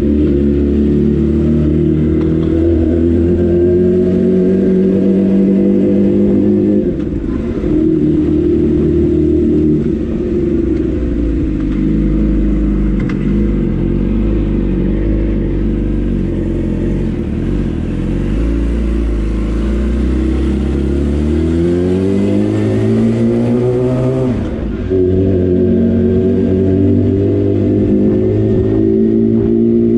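Yamaha R6 sport bike engine running under way at fairly steady revs with small changes. About two-thirds of the way through the revs climb for a few seconds, then drop sharply and settle again.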